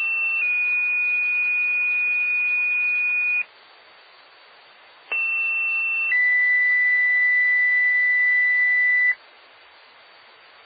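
Fire department two-tone sequential paging tones sent twice over a scanner radio channel. Each page is a short high tone of about a second that drops to a lower tone held about three seconds; the second page ends on a lower tone than the first. Radio hiss fills the gaps, and a short squelch burst comes at the end.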